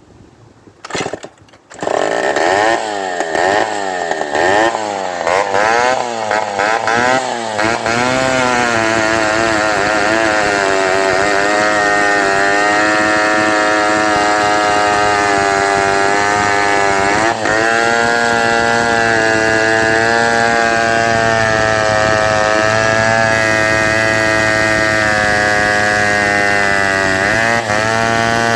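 1961 Homelite WIZ A gear-drive two-stroke chainsaw with its muffler gutted, starting about two seconds in and running stupid loud. The throttle is blipped unevenly for several seconds, then held at high, fairly steady revs with small wavers in pitch.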